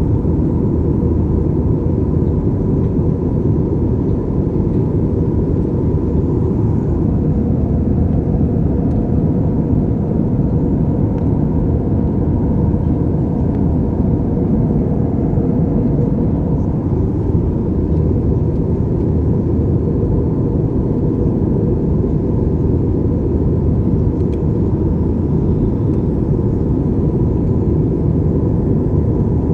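Steady cabin noise of a Super Air Jet jet airliner in flight: a constant low rumble of engines and airflow, with a faint steady tone above it.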